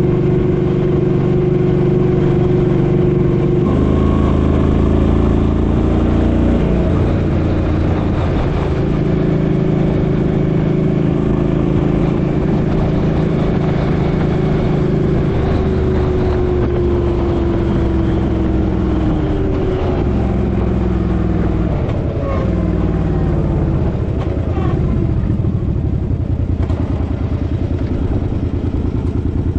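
Suzuki Boulevard M50's V-twin engine running on the road. Its note steps up and down several times and drops off in stages in the second half, over steady wind rush on the microphone.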